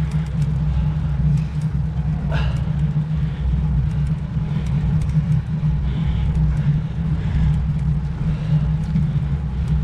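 Wind rushing over the microphone on a moving road bicycle: a steady low rumble. A short rising high sound comes about two and a half seconds in.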